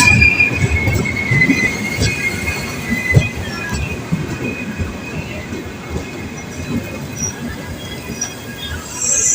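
Express passenger train's coaches rolling slowly into a station under braking, with wheels squealing high on the rails and clacking over the rail joints. The squeal and the rumble fade as the train slows, and a short high hiss comes near the end.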